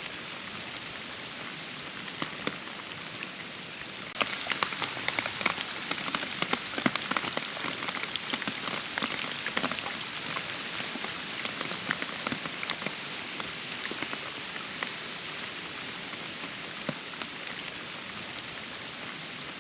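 Steady rain falling, with many distinct drops striking close by. It grows heavier about four seconds in and eases off again after the middle.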